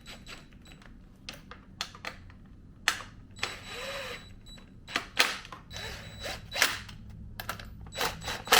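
Clicks, knocks and scraping of parts and tools being handled while a plastic tank shield is fitted onto a motorcycle, with several sharp clicks and a short scraping rustle about three and a half seconds in.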